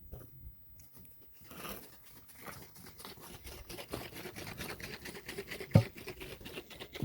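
Faint irregular knocks and rustles of someone moving about and handling things, growing busier after a quiet first couple of seconds, with a low thump shortly before the end and a louder one at the very end.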